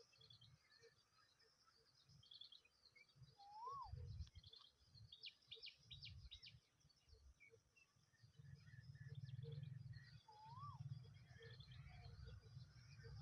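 Faint bird calls: scattered high chirps and two short whistles that rise and fall, over a low rumble.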